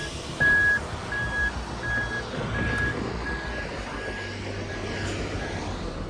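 Vehicle backup alarm beeping in an even single-tone series, about one and a half beeps a second, growing fainter toward the end, over a low steady engine rumble.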